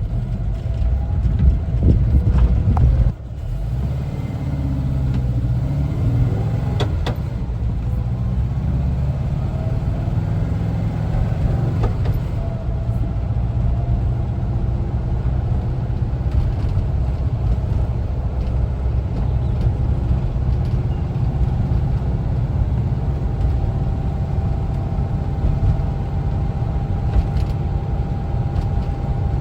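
1974 Volkswagen Westfalia camper driving, its air-cooled Type 4 flat-four engine running under way with a low drone and road noise. The sound drops out briefly and suddenly about three seconds in, then holds steady. A faint tone rises slowly over the later part.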